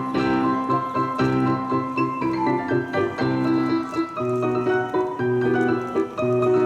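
Piano four-hands duet: two players at one piano, chords struck in a steady rhythm under a higher melody line.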